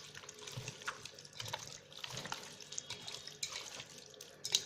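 Raw chicken pieces being mixed in a wet marinade of spices, onion, lemon juice and oil, making faint, irregular wet squelching and squishing sounds, with a slightly louder squish near the end.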